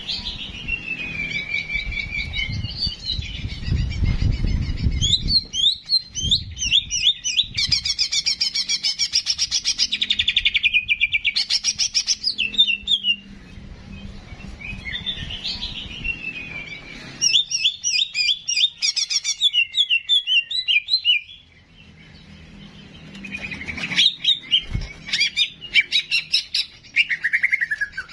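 Songbird singing a varied song of down-slurred whistles, long rapid trills and quick chattering notes, pausing briefly about three quarters of the way through, with a single low thump shortly after.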